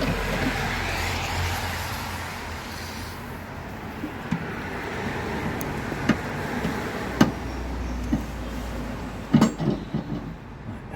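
A road vehicle going past with a rushing noise and a low rumble, loudest in the first few seconds. Sharp knocks and clicks come singly every second or two from about four seconds in, then several close together near the end.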